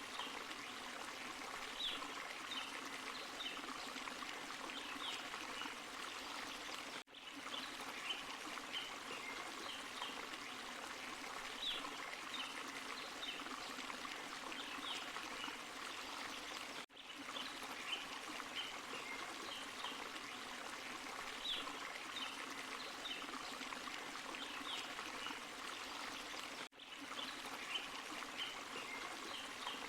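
Small forest waterfall and stream: steady rushing, pouring water with small splashes and trickles over the top. The sound drops out for a moment three times, about every ten seconds.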